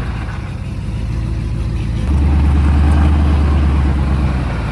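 Pickup truck engine running, getting louder about two seconds in as the driver gives it throttle to try to turn a wheel whose spare is stuck on the spindle.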